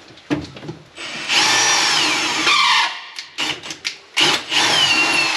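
Power drill boring rivet holes in the trailer wall: two runs of a second or two each, the whine dropping in pitch as the bit bites, with a few short clicks between them.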